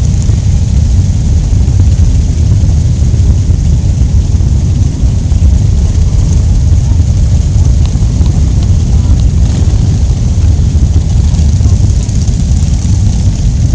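Steady, loud rumble of motorcycles on the move, mixed with wind buffeting the microphone.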